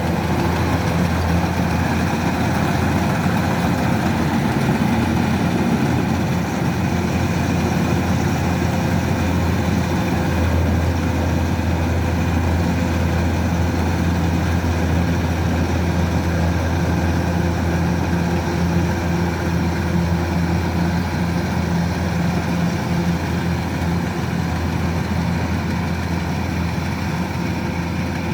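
Kubota DC-105X rice combine harvester's diesel engine running steadily, a constant low drone that holds even throughout.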